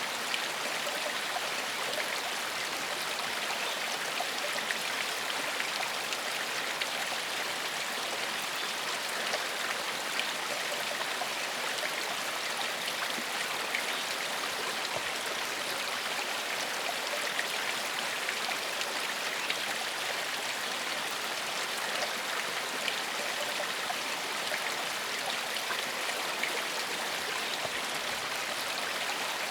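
Shallow forest stream flowing steadily over stones, a continuous rushing and babbling with small splashes scattered through it.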